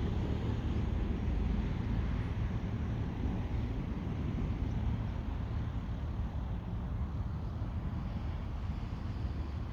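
Small propeller plane's engine running steadily while taxiing, a continuous low drone.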